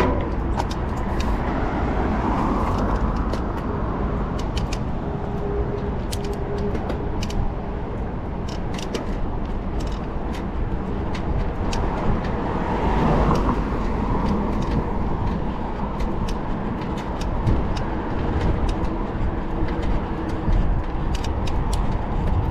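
Mountain bike ridden on a trail, heard from an onboard camera: steady wind rumble on the microphone and tyre noise, with frequent sharp clicks and rattles from the bike.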